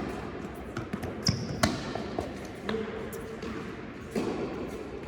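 Tennis ball being struck by rackets and bouncing on an indoor court: a handful of sharp, irregular knocks, the loudest two close together about a second and a half in.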